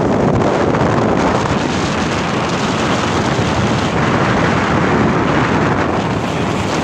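Strong wind buffeting the microphone in a loud, steady rush, over rough, high sea waves.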